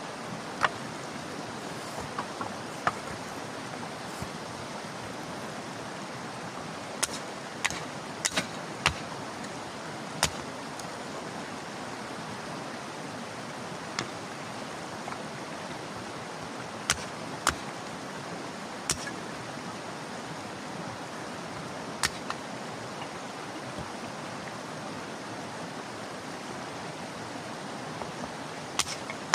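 Sharp snaps of dry kindling wood, coming irregularly every second or few, over a steady rushing hiss.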